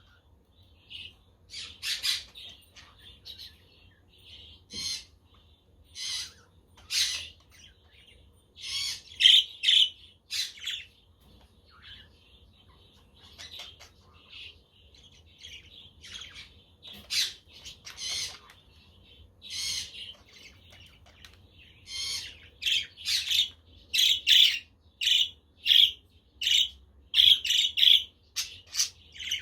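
Budgies chirping and chattering: many short, sharp calls, with the calls coming faster and close together in the last third.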